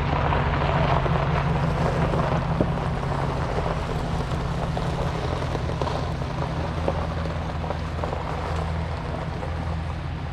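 Pickup truck engine running steadily as the truck is driven, a low engine hum under road and wind noise.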